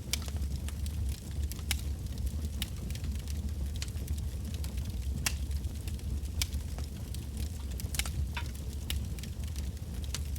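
Wood bonfire of burning logs crackling, with irregular sharp pops and snaps over a steady low rumble of the flames.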